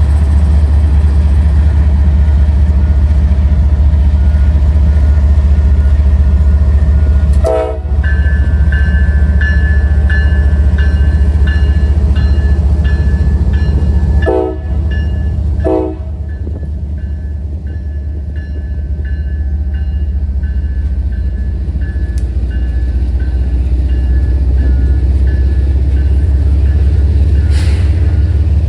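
Train with diesel locomotives passing close, a loud steady low rumble. From about eight seconds in, a high tone rings in repeated short pulses over it.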